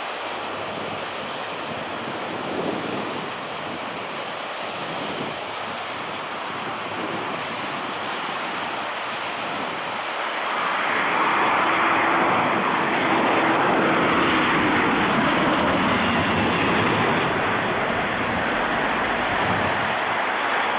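Jet airliner passing on or near the runway, a rushing engine noise that swells about halfway through and stays loud, over wind noise on the microphone.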